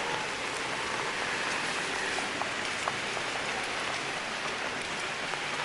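Steady rain falling: an even hiss with scattered small drip ticks.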